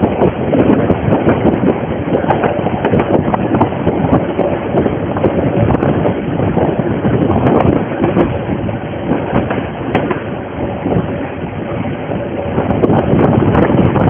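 Wind rushing over the microphone over the running noise of a narrow-gauge steam train, heard from aboard the moving train.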